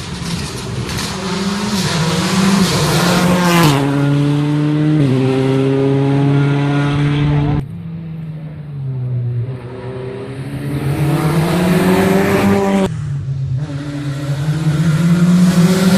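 Rally cars driven hard on a special stage, engines revving high and shifting up through the gears, with the pitch climbing and then dropping at each change. The sound cuts off suddenly twice as one car's run gives way to the next.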